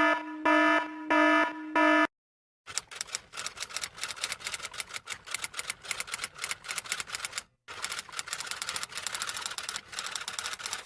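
Four short electronic beeps, then a fast, dense run of typing clicks from typewriter or keyboard keys that pauses briefly about seven and a half seconds in and then resumes.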